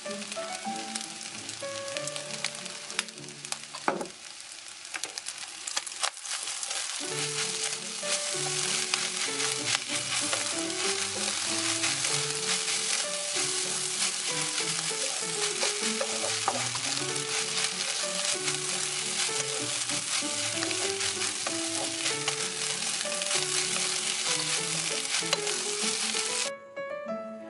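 Fried rice sizzling in a hot nonstick wok while a wooden spatula stirs and scrapes through it, with the odd sharp click. The sizzling grows louder several seconds in and stops abruptly near the end, with background music underneath.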